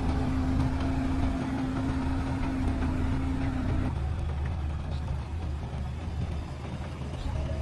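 JCB 3DX backhoe loader's diesel engine running with a steady low rumble. A steady hum sits over it and cuts off about four seconds in.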